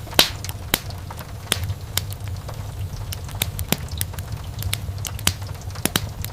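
Wood fire burning in a fireplace: irregular sharp crackles and pops over a low, steady rumble of the flames, with a loud pop just after the start.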